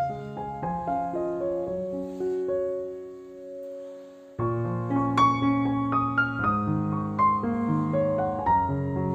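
Background piano music, soft and slow; the phrase fades out a few seconds in and the piano comes back in fuller, with low bass notes, shortly before the middle.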